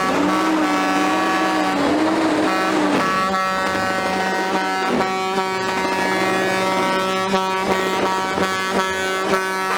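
Truck air horns sounding together in a held, steady chord, with a wavering, siren-like tone over them for the first three seconds.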